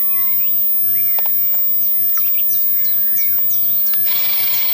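Small birds chirping: a run of short, quick, high chirps over steady outdoor background noise, with a single sharp click about a second in. A steady high hiss starts up near the end.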